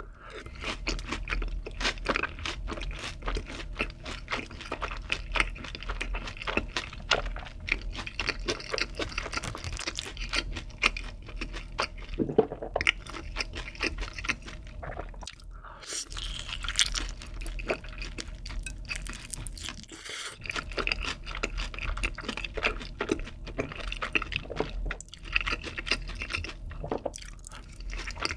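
Close-up chewing of saucy fried chicken (sweet-spicy yangnyeom glaze): steady crunching mixed with wet, sticky mouth sounds, with a couple of brief pauses between bites.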